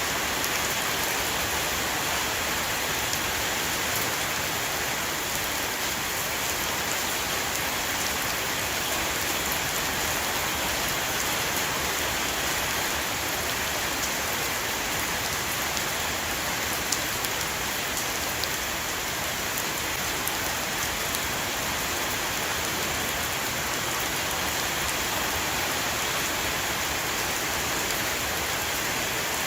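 Heavy rain shower falling on a roof, a steady hiss with single drops ticking sharply through it.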